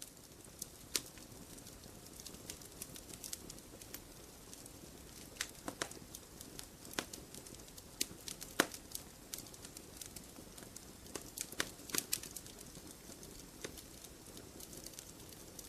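Wood campfire crackling: irregular sharp pops and snaps, single or in quick clusters, over a steady low hiss of the burning fire. The loudest pops come about a second in and around the middle.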